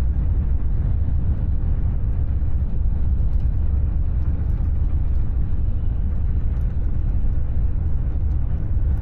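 Steady low rumble of a high-speed train running at speed, heard from inside the passenger cabin.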